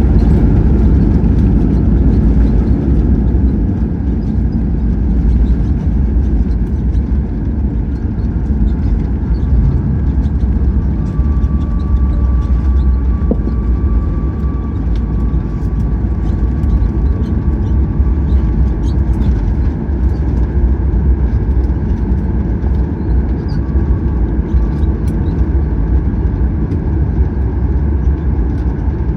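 Boeing 737-800 cabin noise on the landing roll: a loud, steady low rumble of the engines and the wheels on the runway, easing a little about four seconds in, with faint rattles throughout.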